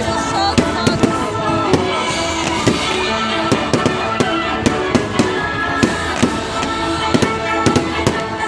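Firecrackers popping in quick, irregular succession, two or three sharp cracks a second, over music playing.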